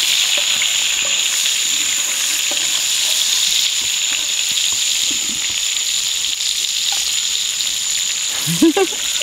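Chacalín freshwater shrimp frying in a pan: a steady, even sizzle.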